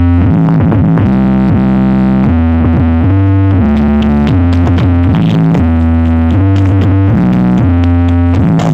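Electronic dance music with a synthesizer line, played very loud through a large sound system stacked with subwoofers, its deep bass notes stepping from one pitch to another every second or so.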